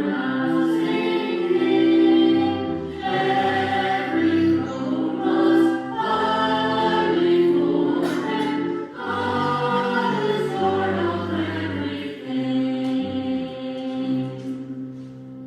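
Church choir singing a hymn-like piece in sustained chords, the song finishing and dying away at the very end.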